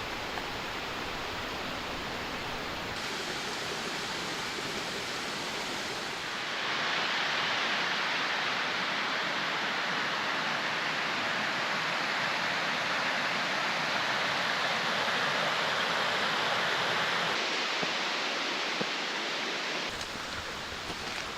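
Rushing water of a small mountain stream cascade, a steady hiss. It jumps louder and brighter about a third of the way in and drops back near the end, with sudden shifts in tone between shots.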